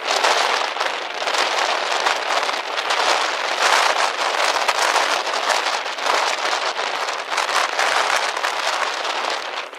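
Rain falling steadily on a surface, a dense, even patter that dips briefly near the end.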